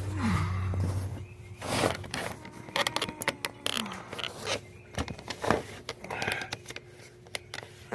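Scattered knocks, clicks and scrapes of metal tools and parts being handled. A low hum stops about a second in.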